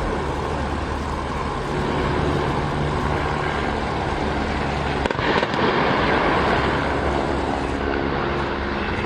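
A train running: a steady low engine hum under a loud rushing noise, growing louder about five seconds in, with a sharp knock there.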